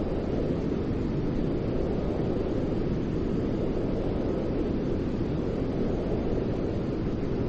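Steady white noise for soothing a baby: an unbroken deep rush with most of its weight in the low end and little hiss on top.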